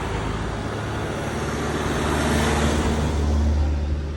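A motor vehicle engine running with a steady low hum, joined by a swell of engine and road noise that peaks about halfway through and eases off as a vehicle passes close by.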